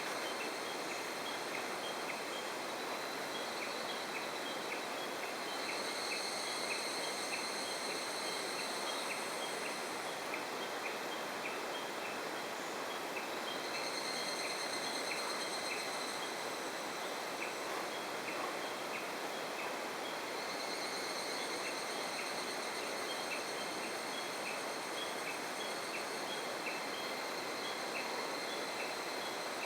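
Steady rushing of river water by a waterfall. Insects buzz high above it in three long stretches, with a quick, regular ticking throughout.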